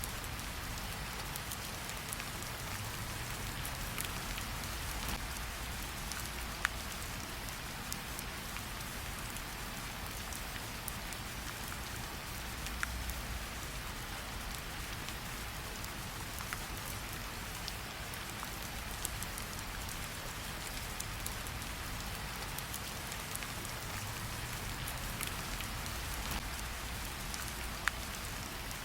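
Steady rain falling, with a few isolated sharp pops from a crackling campfire.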